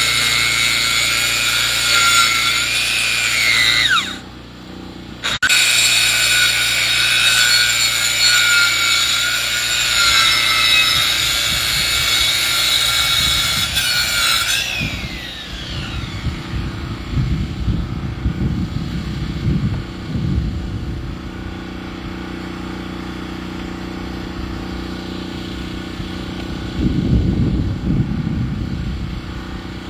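Powered saw cutting through a log while milling lumber: a loud, steady high whine that dips briefly about four seconds in. About halfway through, the cut ends, the whine falls away, and a low engine keeps running with uneven rumbling.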